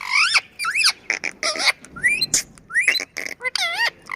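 Indian ring-necked parakeet calling in a quick run of short swooping whistled notes and harsh squawks, about a dozen sounds with brief gaps between them.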